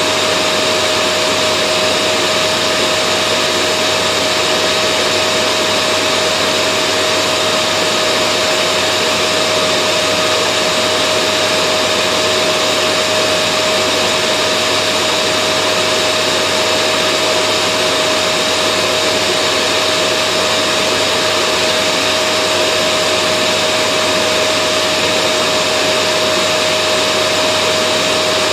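Vacuum cleaner running steadily without a break: an even rush of air with a steady whine in it.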